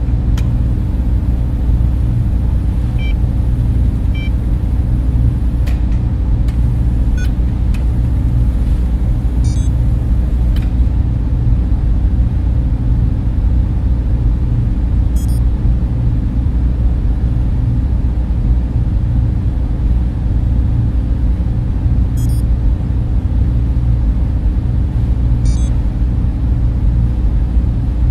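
Server room cooling fans running in a steady, deep, unbroken hum, with a few faint short high blips scattered through it.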